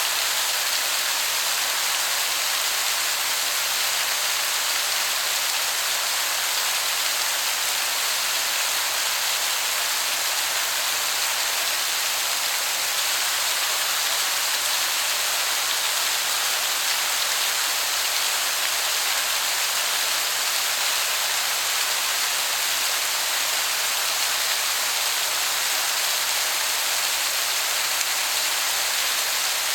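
Waterfall rushing steadily, a dense, even hiss that sounds like heavy rain.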